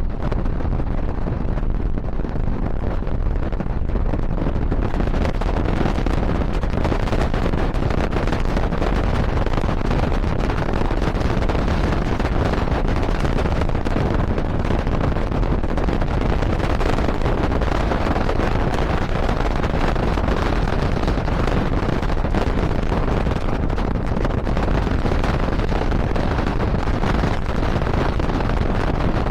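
Moving train heard from on board: a steady loud rumble and rushing noise, with wind on the microphone. The hiss grows brighter about five seconds in.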